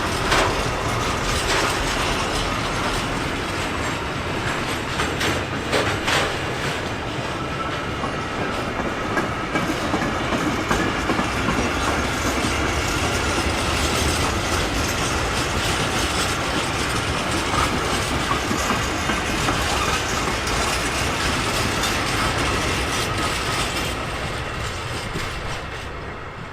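Freight train rolling past at close range: wheels clacking over rail joints, with a faint steady wheel squeal. The sound fades away near the end.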